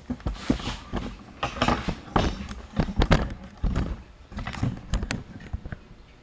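Hand saw set squeezed onto rip saw teeth one after another, with irregular metallic clicks and clunks as the plunger bends each tooth against the anvil, mixed with handling of the tool and saw.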